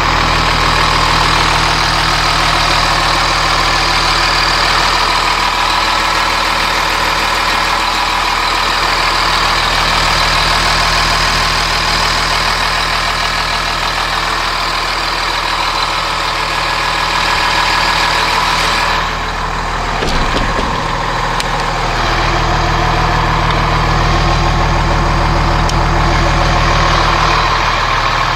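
Cummins ISC 8.3-litre turbo diesel of a Blue Bird All American school bus idling steadily. About two-thirds of the way through the sound briefly dulls, with a short knock just after.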